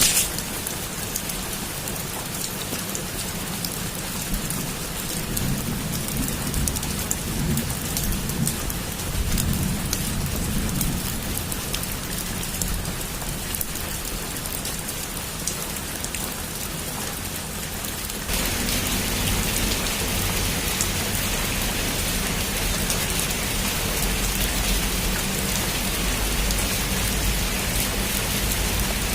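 Heavy rain falling on a roof in a steady hiss, with a low rumble of thunder swelling and fading in the first half. About two-thirds of the way through, the rain abruptly becomes louder and brighter.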